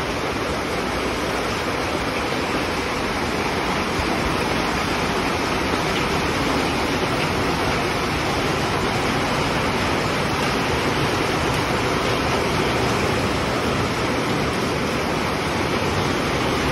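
Heavy rain pouring down in a steady, dense hiss with no breaks.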